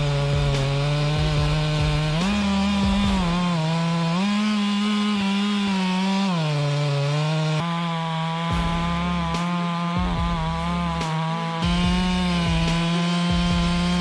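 Chainsaw running at high revs while cutting wood, its pitch dropping as the chain bites and loads in the cut and rising again as it frees, several times over.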